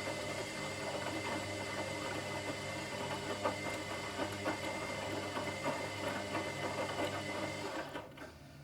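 Washing machine running, its motor whirring steadily with a rattle from the turning drum, then stopping abruptly about eight seconds in, leaving a lower hum.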